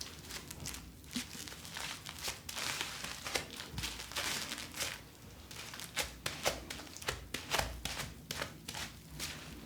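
Hands handling plastic packaging: irregular crinkling with many short, sharp clicks and taps.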